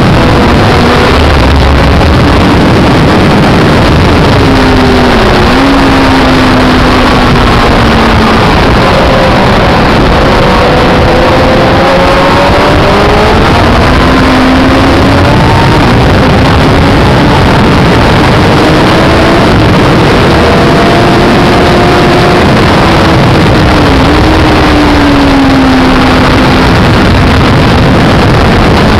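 Yamaha sport bike engine pulling hard on track, its pitch rising and falling with the throttle and gear changes, with a sharp dip in revs twice. It sits under a loud, steady rush of wind on the onboard microphone.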